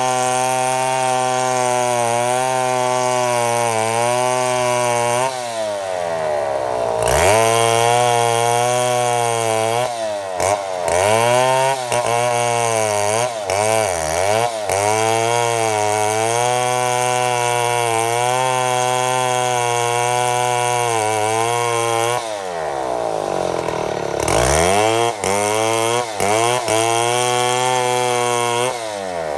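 Chainsaw engine running under heavy load while ripping lengthwise through a mahogany log in a milling cut, its pitch wavering. Twice, about a quarter and about three quarters of the way through, the engine note falls away and climbs back up.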